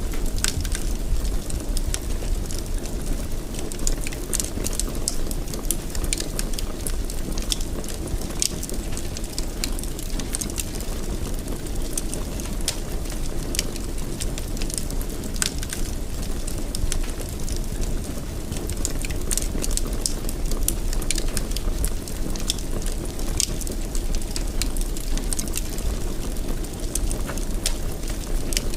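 Fireplace fire crackling, with frequent small sharp pops over a steady low rumble of the flames.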